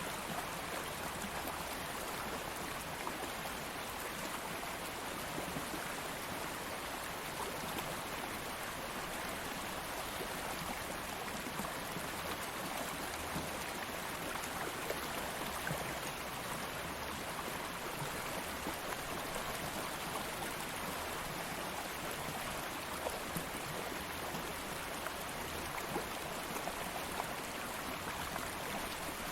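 Stream of water flowing steadily over rocks, with small splashes and gurgles.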